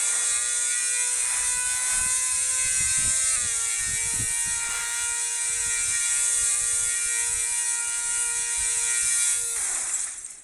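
A steady mechanical whine over a loud hiss. It steps down slightly in pitch about three seconds in, then cuts off abruptly near the end.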